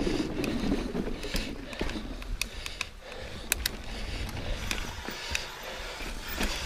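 Mountain bike rolling over rocky trail: scattered sharp clicks and rattles from the bike over a steady rush of tyre and wind noise.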